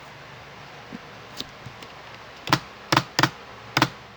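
Computer keys pressed one at a time: a few sharp clicks, irregularly spaced, coming faster and louder in the second half.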